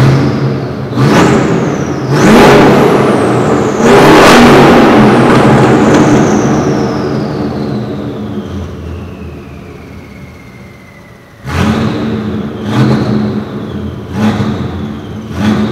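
2003 Audi RS6's twin-turbo 4.2-litre V8, running with its mufflers removed, revved hard while parked: three loud throttle blips, the third held longest and dying away slowly, a lull at idle, then four quick blips near the end. Each blip is followed by a high whistle falling in pitch as the revs drop, and the sound echoes around the concrete parking garage.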